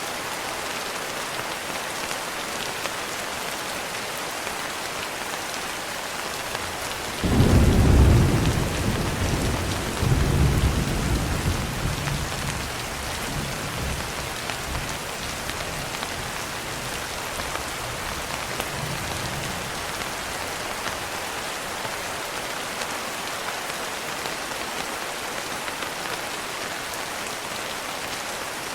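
Steady heavy rain on a surface, with a sudden clap of thunder about seven seconds in that swells again a few seconds later and rumbles away over about ten seconds.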